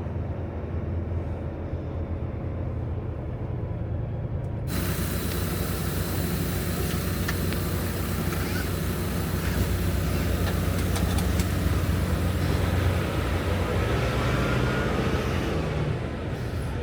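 Semi-truck's diesel engine running steadily as the truck drives slowly. About five seconds in, a loud hiss comes in suddenly on top of the engine and carries on.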